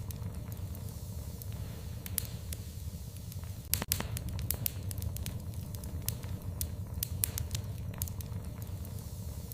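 Wood fire crackling in a fireplace: irregular sharp pops and snaps over a low steady rumble of the flames, with a louder cluster of pops a little under four seconds in.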